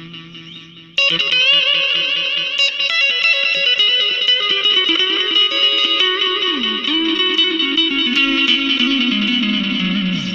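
Electric guitar through the Nux MG-200 modeler's delay. A note struck about a second in piles up into dense, warbling repeats, with the delay pushed toward self-oscillation. The pitch slides down twice in the second half.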